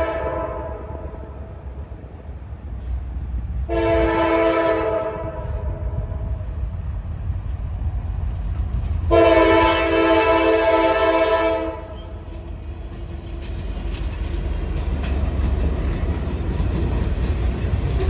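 Diesel locomotive's multi-chime air horn sounding: the end of one blast right at the start, a short blast about four seconds in, then a longer blast of nearly three seconds about nine seconds in. Beneath it a steady low train rumble grows louder toward the end.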